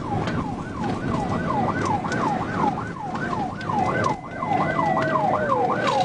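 Police car siren on yelp, its pitch rising and falling about three times a second, over the noise of a car driving at speed.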